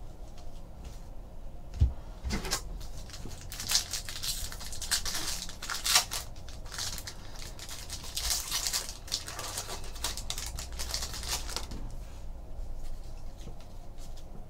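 Trading cards and their plastic and foil packaging being handled: a single knock about two seconds in, then bursts of rustling and crinkling for about ten seconds, dying down near the end.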